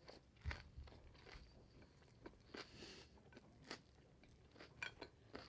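A person chewing a mouthful of nem nuong spring roll close to the microphone: faint, irregular crunches and wet mouth clicks.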